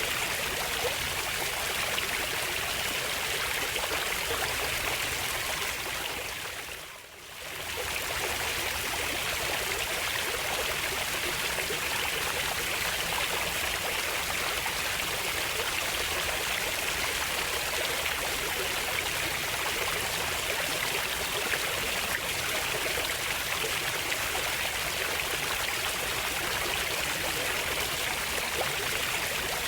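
Running water of a stream, a steady rushing and trickling that fades down briefly and comes back about seven seconds in.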